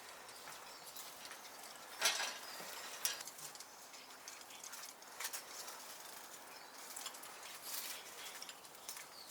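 Scattered rustling and light knocks, typical of small birds fluttering and hopping in wire trap cages, the loudest about two seconds in.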